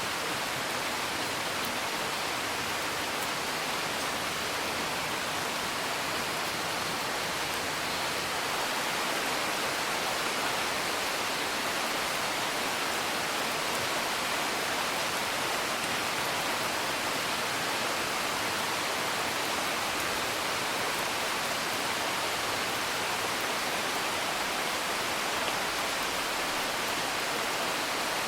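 Steady rain: a dense, even hiss of falling drops with no thunder.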